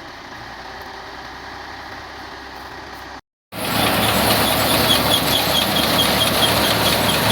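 New Holland Al-Ghazi 65 hp tractor engine driving a wheat thresher, running steadily. After a brief dropout about three seconds in, the machinery is much louder and closer, with a quick regular ticking over the din.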